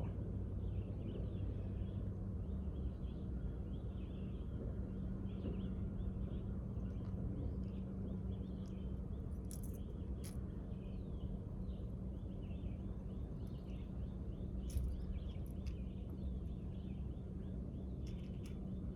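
Small birds chirping continuously over a steady low hum with a constant drone, with a few faint clicks near the middle and end.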